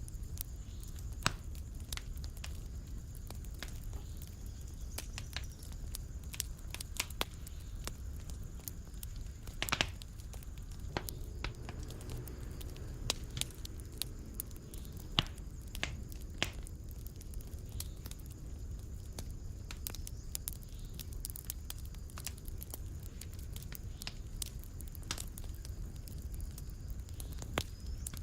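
Fireplace fire crackling, with irregular sharp pops over a low, steady rumble of the flames; one louder pop about ten seconds in.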